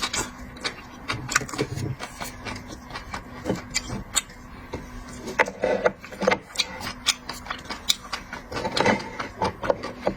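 Close-up eating sounds of a person chewing seafood: an irregular run of many small sharp clicks and wet smacks, over a faint steady low hum.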